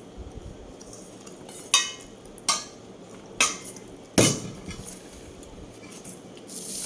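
Cutlery knocking against a dish four times over a couple of seconds, the knocks ringing briefly. Near the end comes a short hiss.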